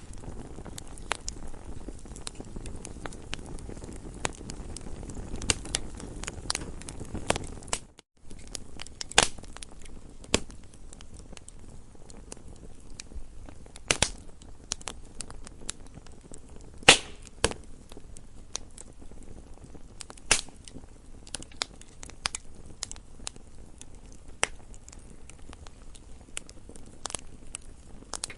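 Campfire crackling: many irregular sharp pops and snaps from burning wood over a soft low rumble of flames, with a few louder pops. The sound cuts out for a moment about eight seconds in, and the low rumble is fainter after that.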